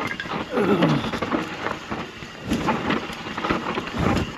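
Downhill mountain bike running over a rough, rocky trail: tyres on dirt and rock, with chain and frame rattling over bumps and wind on the microphone. A short tone falls in pitch about half a second in.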